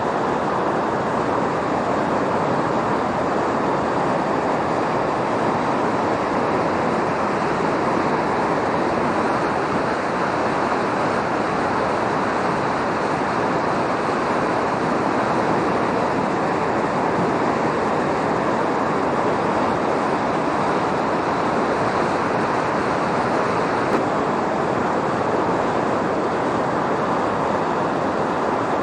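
A river swollen by typhoon rain, rushing steadily: a constant loud wash of fast-flowing floodwater.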